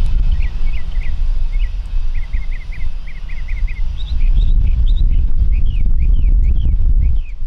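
Small birds chirping in quick runs of short notes, turning to higher, down-slurred notes about halfway through, over a loud low rumble.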